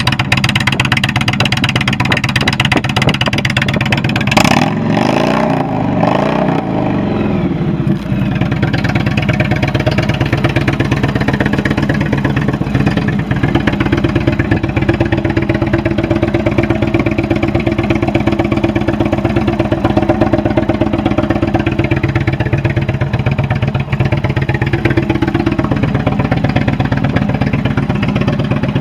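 2017 Indian Chief Vintage's air-cooled Thunder Stroke 111 V-twin idling, with one throttle blip about four and a half seconds in that rises and falls back to idle.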